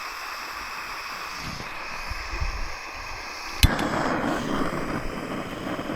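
Gas camping stove being lit for a brew. A steady hiss of gas runs until a single sharp click of the igniter about three and a half seconds in, and then the burner catches and runs with a fuller, lower rushing sound.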